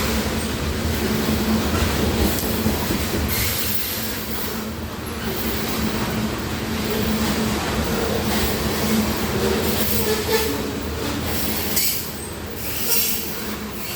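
Union Pacific grain train rolling past: a steady rumble of steel wheels on the rails, with a few brief high-pitched squeals or hisses from the wheels.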